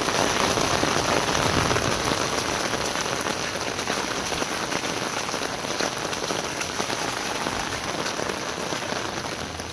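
Heavy rain pouring down and pattering on surfaces, a steady dense hiss of drops throughout.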